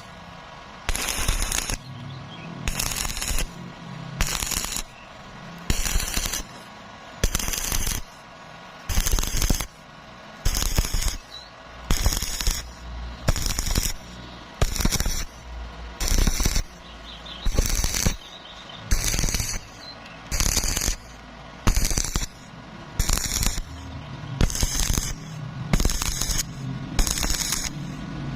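Stick welding arc crackling in short bursts, struck and broken roughly once a second in a stitch or whip rhythm while a fillet weld is laid on square iron tube.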